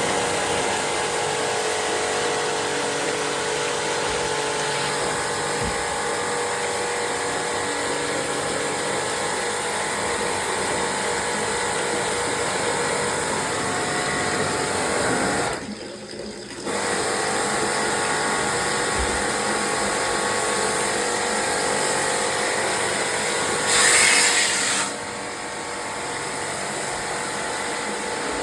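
A motor-driven machine running steadily with a mechanical whirring. It drops out briefly about sixteen seconds in, and a louder hiss comes in for about a second near the end.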